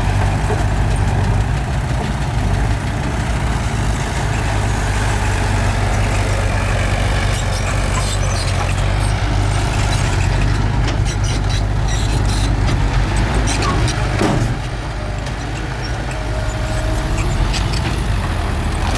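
Heavy diesel engine of earthmoving equipment running steadily with a deep rumble, with a run of clanks and knocks through the middle. It gets slightly quieter about three quarters of the way through.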